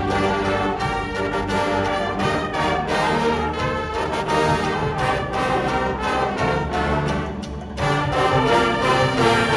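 Brass-led wind ensemble playing full sustained chords that change every second or so.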